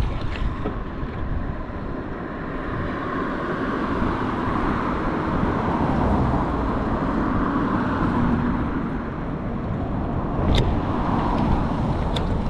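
Road traffic heard from a bicycle: cars passing, swelling and fading over a steady low rumble, with two sharp clicks near the end.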